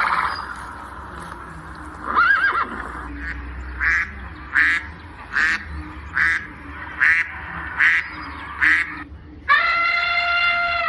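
Recorded animal calls played through a phone speaker: a string of short calls, one about every three quarters of a second. Near the end comes one long, steady elephant trumpet.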